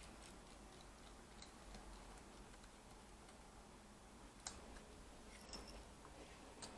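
Near silence with a few faint ticks and clicks, from a small screwdriver driving a keyboard screw into a laptop's plastic base.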